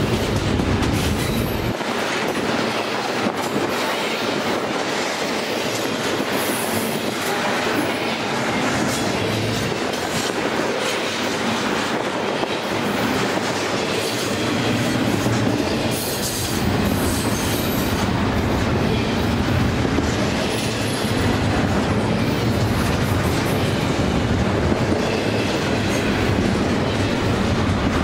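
Double-stack container freight cars rolling past close by: steady wheel-and-rail rumble with a running clickety-clack of wheels over rail joints. Brief high wheel squeals come now and then.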